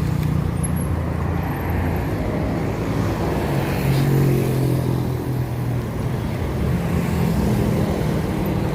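Road traffic: a motor vehicle's engine hum that swells and fades about halfway through, over steady road noise.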